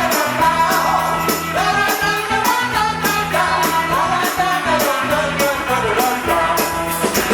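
Live rock band playing, with high percussion hits on a steady beat and a wavering melody over a sustained low part.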